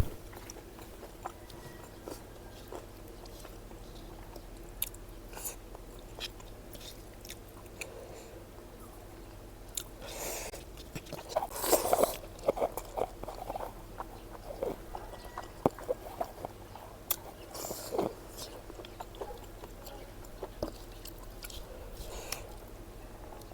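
A person chewing food, with scattered short mouth clicks and smacks; the eating sounds grow louder and busier about halfway through and again about three-quarters of the way in.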